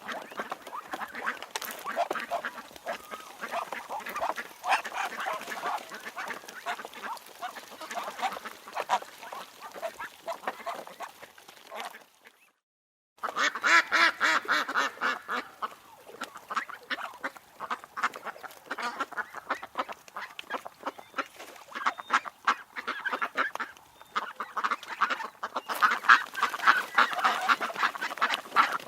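A flock of ducks quacking and chattering busily, many short calls overlapping, with a break of about a second of silence just after twelve seconds in before the quacking resumes.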